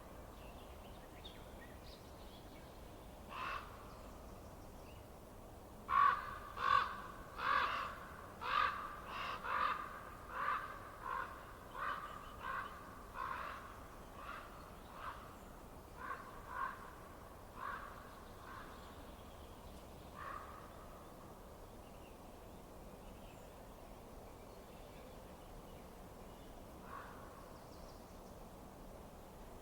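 A bird calling: a lone call, then a run of about seventeen harsh calls, a bit more than one a second, that grow fainter and slower, then two more single calls. There is a faint steady hiss underneath.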